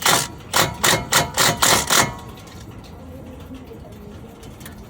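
Wrench tightening the brake hardware bolts: a quick run of about seven sharp, loud bursts over the first two seconds, then it stops.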